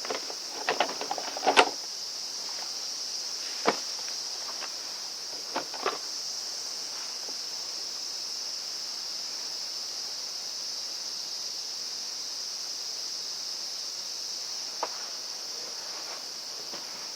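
A steady high-pitched drone of insects throughout, with a few sharp clicks and knocks of the brush cutter's parts being handled and fitted during reassembly, most of them in the first six seconds and one more near the end.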